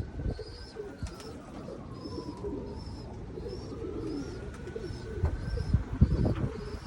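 Pigeons cooing over wind gusting on the microphone, which grows heavier near the end. A short high chirp repeats steadily about every half second, and a faint tone slowly rises and falls.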